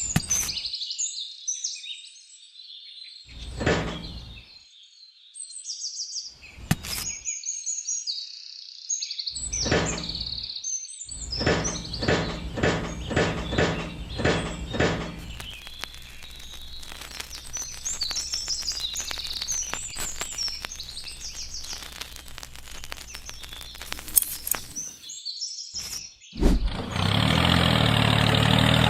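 Birds chirping, with occasional knocks and a stretch of fast clicking and rattling in the middle. About two seconds before the end a motor starts and runs steadily and loudly.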